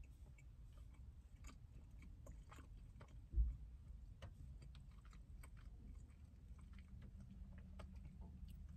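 Faint chewing with small scattered mouth clicks. A single dull low thump about three and a half seconds in.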